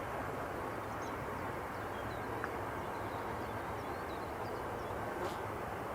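Steady hiss of an air-traffic control radio channel between transmissions, with a few faint high chirps.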